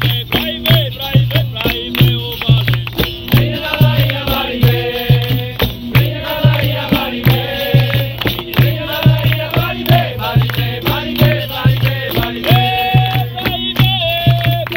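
Capoeira roda music: voices singing a chant over a steady, evenly repeating percussion beat with a strong low drum pulse.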